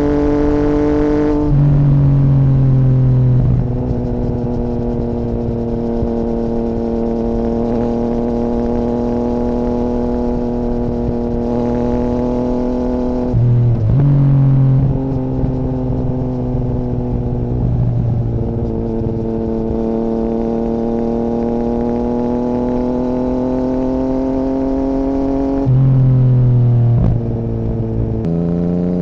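2017 Yamaha MT-09's three-cylinder engine running through an Akrapovic Racing Line carbon full exhaust with the dB killer removed, on the move. The note climbs slowly, then drops in pitch three times, each drop followed by a louder, deeper stretch lasting a second or two.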